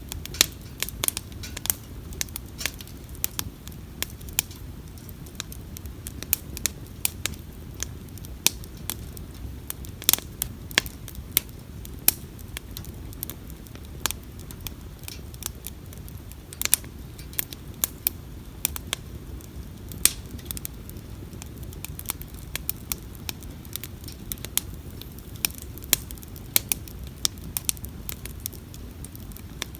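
Wood bonfire crackling, with frequent sharp, irregular pops over a low steady rumble.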